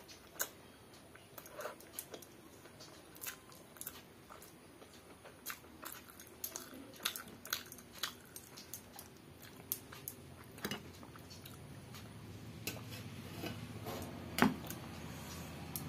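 A woman chewing mouthfuls of rice eaten by hand, with many small irregular mouth clicks and one louder click near the end.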